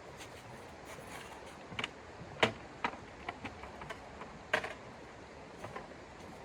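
Irregular light clicks and knocks, two of them clearly louder than the rest, over a steady hiss.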